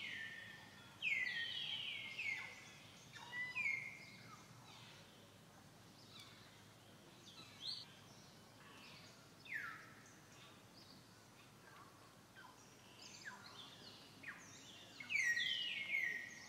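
Wild birds calling: short, high notes that slide steeply downward, coming in clusters of two or three with quieter gaps of several seconds between, over a faint steady background.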